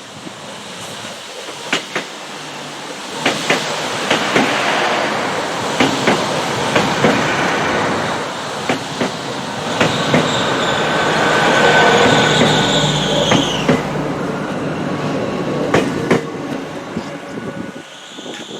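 A train passing close by, its wheels clicking over rail joints again and again as the noise swells and then fades near the end. High wheel squeal sets in about ten seconds in and stops some four seconds later.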